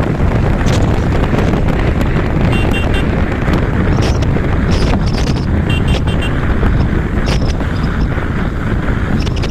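Wind buffeting the microphone, a steady loud rumbling rush. Twice, a quick series of three short high chirps sounds faintly through it.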